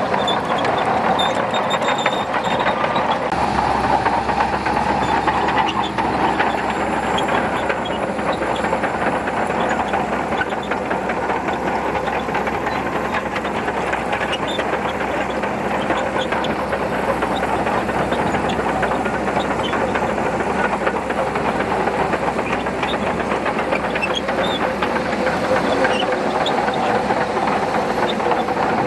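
Shantui DH17C2 bulldozer working: the engine runs steadily under a dense, continuous clatter of its steel tracks.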